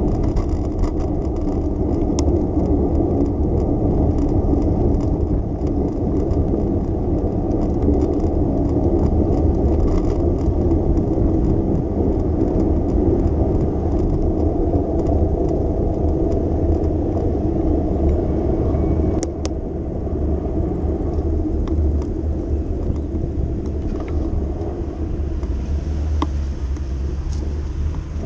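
City street noise heard from a moving bicycle: a steady low rumble of wind and road noise, with car traffic running under it. A couple of sharp clicks come about nineteen seconds in.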